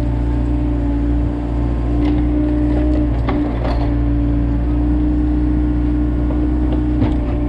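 Komatsu excavator's diesel engine running steadily under load, with a few faint knocks.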